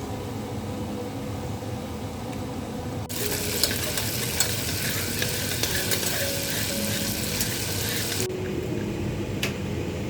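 Food frying in a pan: a dense crackling sizzle with small pops that starts suddenly about three seconds in and cuts off near the end.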